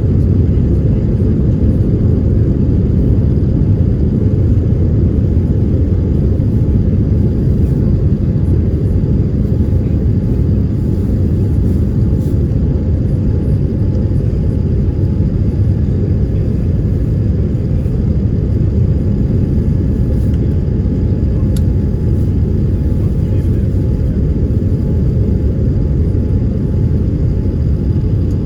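Steady low rumble of an airliner's engines and airflow heard inside the passenger cabin, unchanging throughout.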